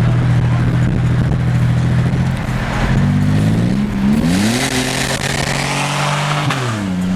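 Pontiac Grand Am's V6 running through a straight-piped exhaust: a steady loud note, then about three seconds in the engine revs up hard as the car pulls away. The pitch climbs, holds high, and falls again near the end.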